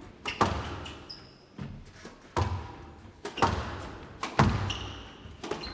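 Squash rally: the ball is struck by rackets and cracks off the walls and floor in a series of sharp knocks, about one every half-second to second, each ringing briefly in the hall. Short high squeaks of court shoes are heard between shots.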